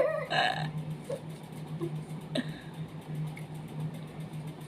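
A short throaty vocal sound just after the start, then a steady low hum with faint room noise.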